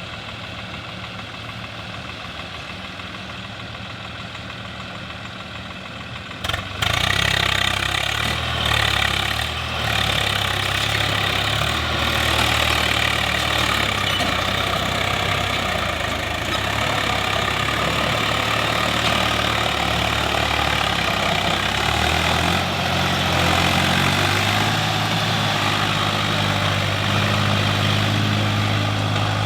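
Swaraj 735 FE tractor's three-cylinder diesel engine running steadily at low speed. About six seconds in it suddenly gets much louder and harsher and keeps running hard, working under a heavy clay load.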